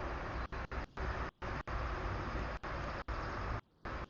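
Steady hiss of background noise from the HIBIRD CAMOJOJO smart bird-feeder camera's live audio feed, cut repeatedly by brief dropouts, about two a second.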